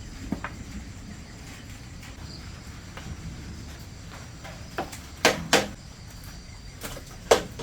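Several sharp knocks or clatters over a steady low background noise: one small knock, then a cluster of three near the middle and a loud single knock near the end.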